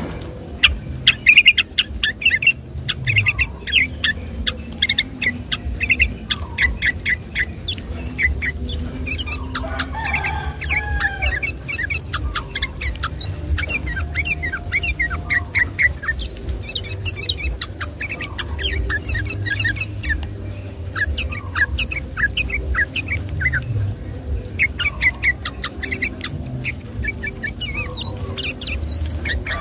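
Yellow-vented bulbul (trucukan) singing continuously, long runs of rapid, bubbling chirps in quick succession with only brief pauses, over a steady low background rumble.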